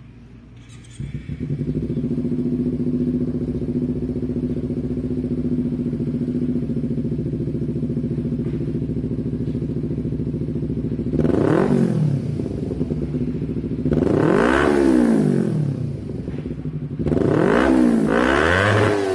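Kawasaki Ninja 250 FI engine breathing through an R9 H2 GP series aftermarket exhaust. It catches about a second in and idles steadily, then is revved with three throttle blips, each rising in pitch and falling back, the last one longer.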